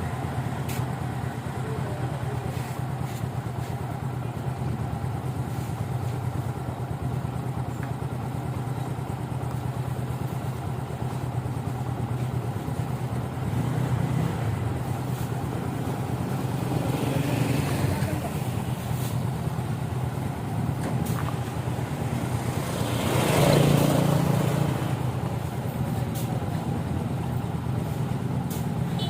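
Motorcycle engine running steadily under way, with a brief louder rush of noise about 23 seconds in.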